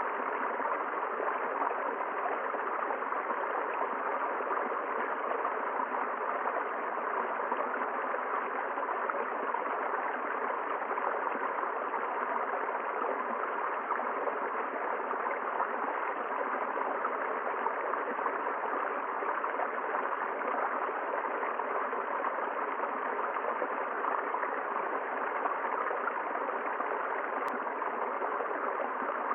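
River water flowing steadily, an even rushing with no change.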